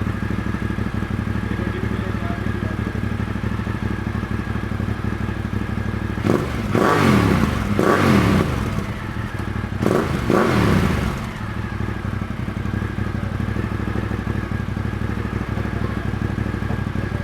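Ducati motorcycle idling through a freshly fitted SC-Project SC1-R slip-on exhaust with its dB-killer baffle in place. Two bursts of throttle revving come around the middle, the pitch rising and then falling back to a steady idle.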